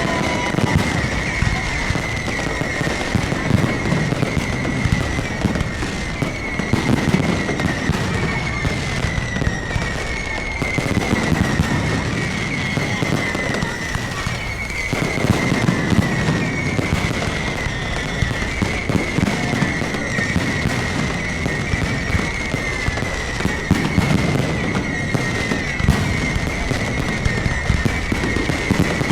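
Fireworks display: a dense run of crackling bangs and low booms, over a high falling whistle that repeats about once a second.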